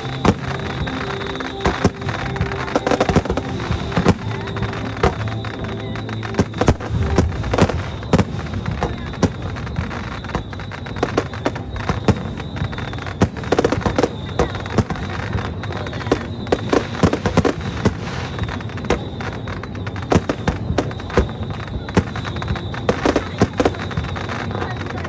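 Aerial fireworks bursting in rapid, irregular succession: many sharp cracks and booms overlapping each other.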